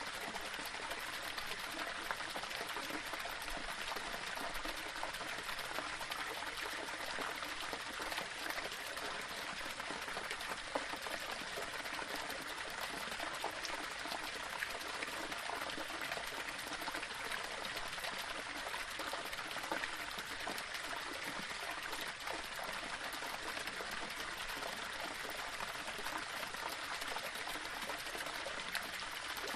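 Small waterfall running over stones: a steady splashing and trickling of water.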